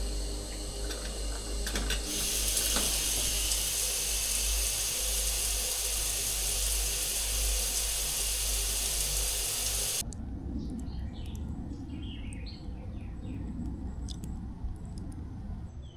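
Water running steadily from a shower, louder about two seconds in, then cut off abruptly about ten seconds in. Birds then chirp over a low rumble.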